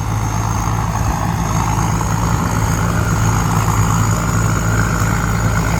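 Combine harvester's engine running steadily under working load, with a thin, steady high-pitched whine above the low engine hum.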